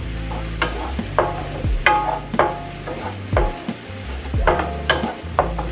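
A utensil stirring onions and garlic sautéing in butter in a pot. It clinks against the pot about twice a second over a light sizzle.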